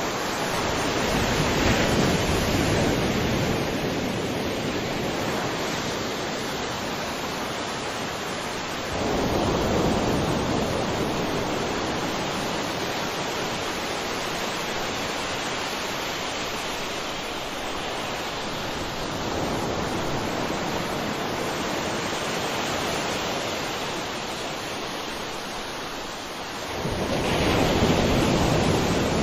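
Ocean surf: a continuous wash of waves, with a bigger wave swelling and breaking about every eight to ten seconds.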